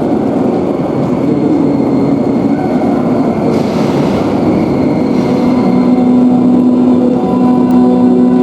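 Train noise at a railway station platform, a dense rumble with a burst of hissing about three and a half seconds in. From a little past halfway, several steady held tones come in over it.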